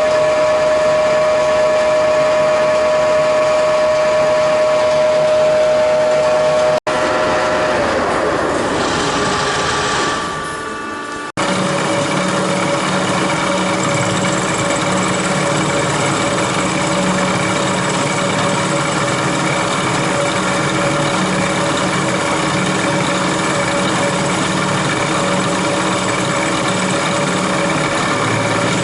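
Metal lathe running while turning a steel bushing: a steady motor and gearbox whine. About seven seconds in the sound breaks off and the pitch falls for a few seconds as the lathe winds down, then after another break it runs steadily again.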